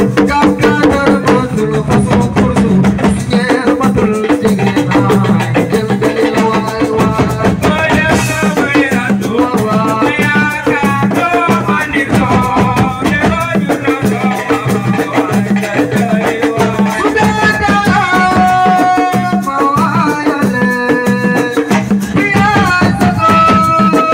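Senegalese assiko music: a fast, dense drum rhythm with rattles, under a melodic line that bends and then holds long notes in the second half.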